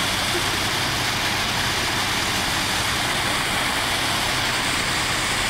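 Heavy rain pouring steadily, with an engine idling underneath as a low, even hum.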